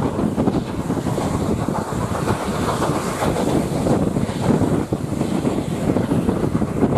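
Wind rushing over the microphone at the open window of a moving passenger coach, over the steady running rumble of the train on the track.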